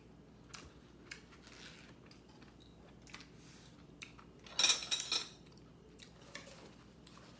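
Eating utensils clinking softly against a bowl, a few scattered light clicks, with one louder noisy sound lasting about half a second a little past halfway through.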